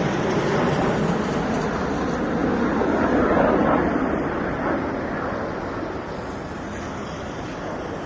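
Military jet aircraft flying past overhead: a broad rushing roar that swells about three seconds in and then slowly fades as the aircraft move away.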